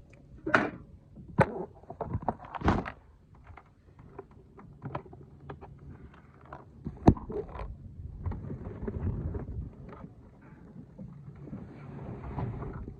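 Knocks and thuds of hard objects bumping on a small boat, irregular, the sharpest about seven seconds in, with stretches of low rushing noise in between.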